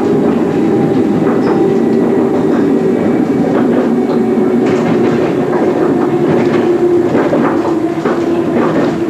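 MI79 electric multiple unit running, heard from the driving cab: a steady drone with the wheels knocking irregularly over rail joints and pointwork.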